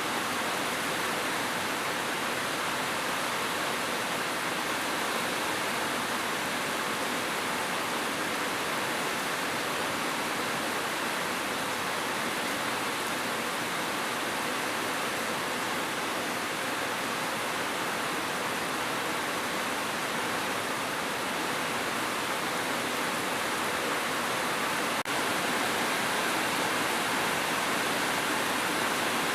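Steady rain, an even unbroken hiss with no single drops standing out.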